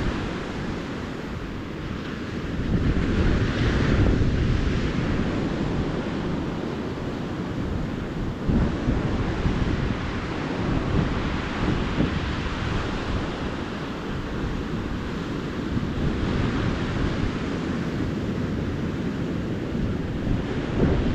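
Ocean surf washing onto a beach, swelling now and then as a wave breaks, with wind rumbling on the microphone.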